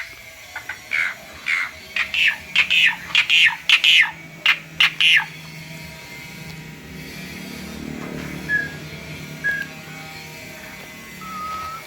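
Starling (jalak) calling in a quick series of sharp, harsh chirps for about five seconds, then giving three short whistled notes over a faint low hum.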